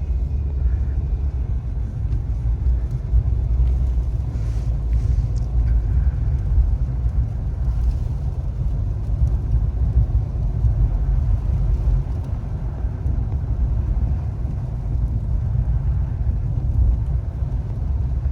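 Steady low rumble of a two-wheel-drive car driving through a snowstorm on a highway, heard from inside the cabin: engine, tyre and road noise.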